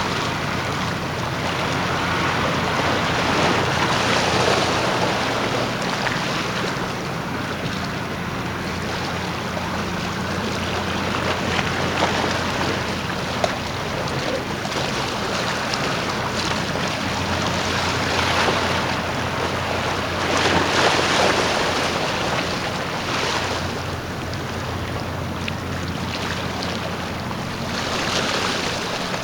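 Jetfoil high-speed ferry running, a steady low engine hum under the rush of water and wind, with gusts buffeting the microphone every few seconds.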